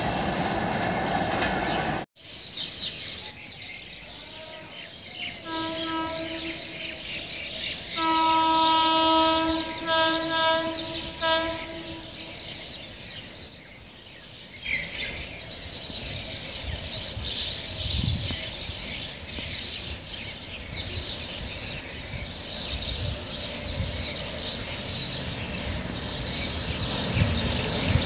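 Indian Railways electric locomotive sounding its horn, a short blast and then a long steady one of a few seconds, as the train approaches. After the horn, the rumble and wheel clatter of the oncoming train build up toward the end.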